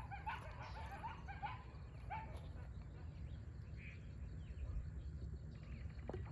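Canine yipping and howling calls, high and gliding in pitch, that trail off over the first two or three seconds. Underneath is a steady low rumble.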